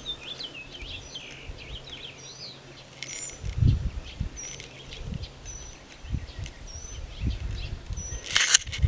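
Small birds chirping: a run of short high chirps, with a thin high tweet repeated about once a second in the second half. Low thumps come now and then, and a brief loud rustle comes near the end.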